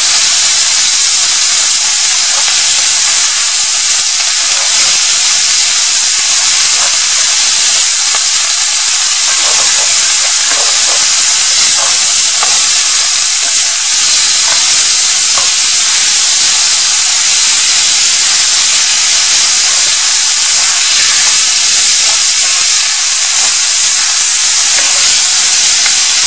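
Sliced chicken sizzling in hot oil with garlic and ginger in a cast-iron skillet, a loud steady frying hiss as the raw meat cooks and is stirred.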